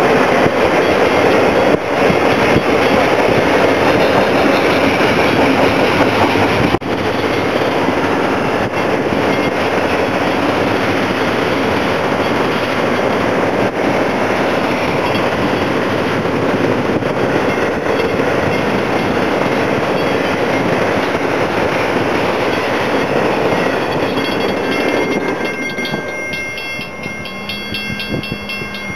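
Double-stack intermodal container freight train passing a level crossing: a steady, loud rumble and rattle of wheels on rail. Near the end the train noise falls away, leaving the repeated ringing of the level-crossing bell.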